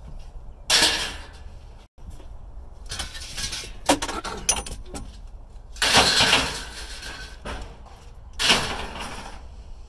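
Scrap being handled and dropped, about six separate clattering bursts.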